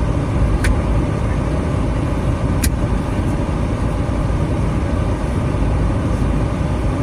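Steady low rumble of a minivan on the move, engine and road noise, with two short sharp clicks about two seconds apart.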